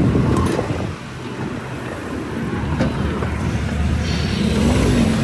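Road traffic: a low vehicle rumble that drops about a second in, then builds again as a vehicle approaches, with wind buffeting the microphone.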